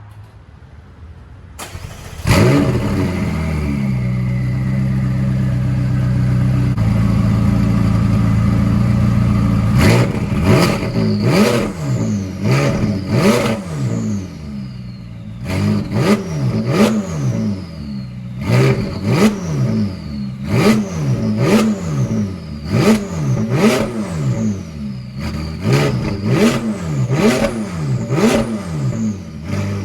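McLaren 570S 3.8-litre twin-turbo V8 cranking and catching about two seconds in, then running at a steady high idle. From about ten seconds on it is revved in a string of quick throttle blips, each rising and falling in pitch, about one a second, through the exhaust.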